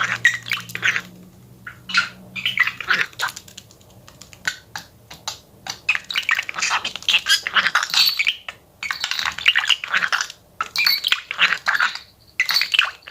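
Pet budgerigar chattering: a fast run of short clicks and chirps, sparse at first and near-continuous in the second half.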